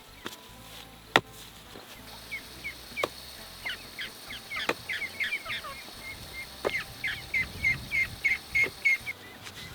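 Newly hatched chicks peeping: a run of many short, high chirps that grows quicker and louder. A single sharp click comes about a second in.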